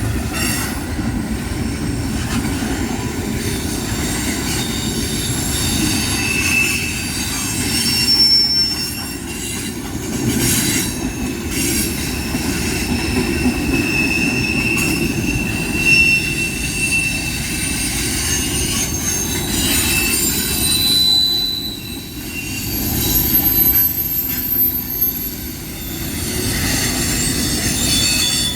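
A train rolling past, its cars rumbling steadily on the rails, with thin high wheel squeals that come and go and an occasional click from the wheels.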